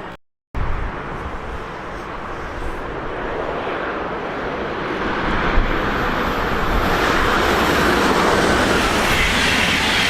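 A train approaching and drawing closer, its running noise growing steadily louder after a brief dropout at the start.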